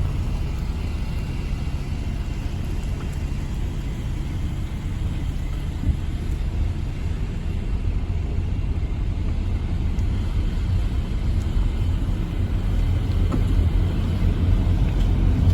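Steady low rumble of road and engine noise inside a moving car, swelling slightly near the end.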